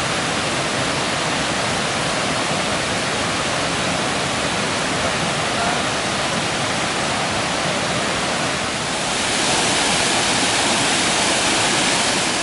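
Waterfall water rushing as a steady, dense wash of noise that grows louder about nine seconds in.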